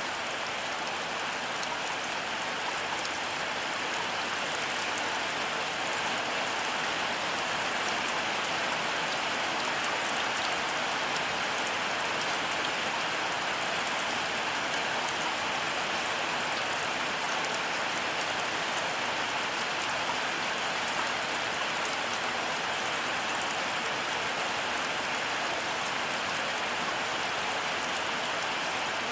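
Heavy rain falling steadily: a dense, even hiss with fine patter of individual drops, and no thunder.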